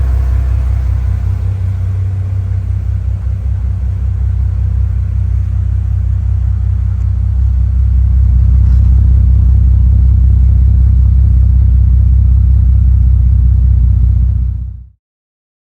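2004 Bentley Continental GT's twin-turbo W12 engine idling after a cold start, a steady low rumble that grows somewhat louder about halfway through. The sound cuts off suddenly near the end.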